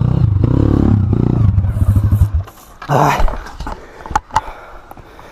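Honda Tornado motorcycle's single-cylinder four-stroke engine, bored out to 293 cc, running with a fast, even thudding, then cutting out about two and a half seconds in. A short breathy vocal sound and a couple of sharp clicks follow.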